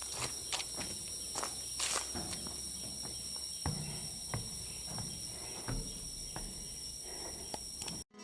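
Irregular footsteps and knocks over a steady high-pitched insect drone, cut off abruptly near the end.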